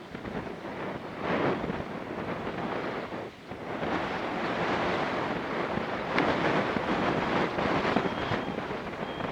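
Strong, gusty wind buffeting the microphone, a rushing noise that swells and dips.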